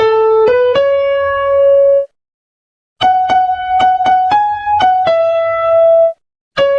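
Single-line melody played note by note in a sustained electronic keyboard tone, in short phrases separated by about a second of total silence, as in a notation playback of a song's tune.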